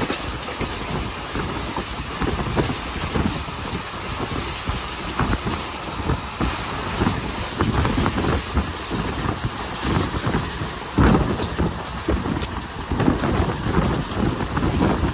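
Passenger train running along the track, heard from an open coach doorway: a steady rumble and rattle of the wheels and coach, with heavy wind buffeting on the microphone.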